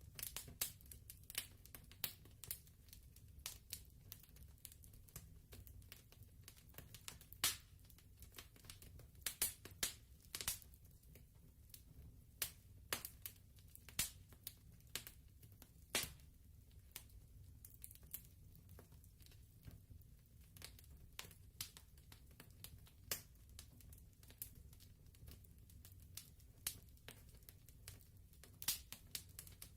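Wood fire crackling: irregular sharp pops and snaps, some louder than others, over a faint low rumble.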